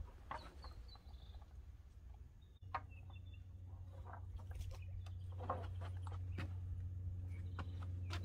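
Birds giving short, high chirping calls, over a steady low hum that starts about a third of the way in and slowly grows louder, with light scattered clicks and rustles.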